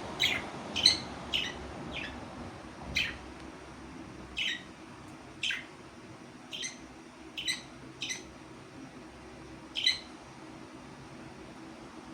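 Parrot giving about a dozen short, high chirping calls at uneven intervals, each a quick downward sweep.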